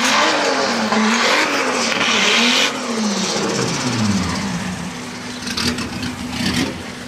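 Car engine run hard on a chassis dyno, its pitch climbing and dropping back several times as it pulls through the gears. About 2.7 s in the throttle is lifted and the revs fall away as the rollers coast down, leaving a quieter steady running note.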